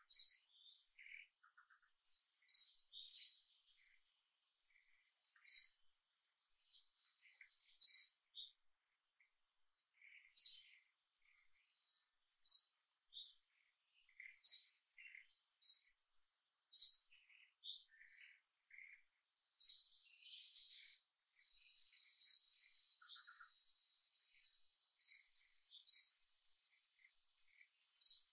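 Birds chirping: a short, high chirp repeated about every two seconds, with fainter chirps scattered between and a faint insect-like hiss in the middle stretch.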